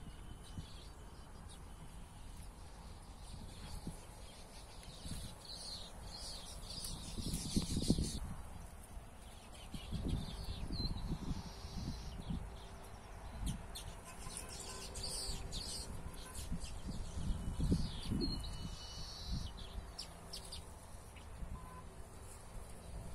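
Birds chirping and calling in scattered bursts, over irregular low rumbles and thumps on the microphone.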